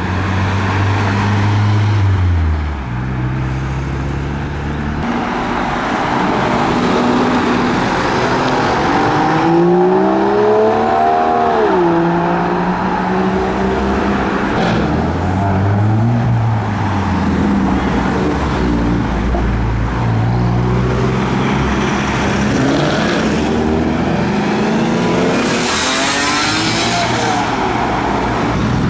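Cars driving off one after another, a Nissan Silvia S15 first, their engines revving up and dropping back several times. Near the end one passes close with a loud rush.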